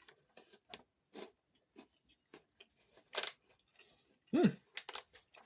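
Crunchy chocolate-coated hyper-dried strawberries being chewed: scattered faint crunches and mouth clicks, with one louder crunch about three seconds in. A short hummed "mm" comes about four seconds in.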